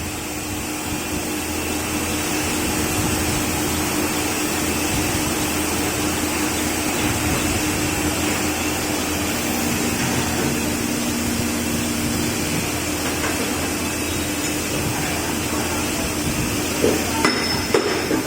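Injection molding machine and insert-loading robot running: a steady machine noise with a constant hum and whine, and a few sharp metallic clanks near the end.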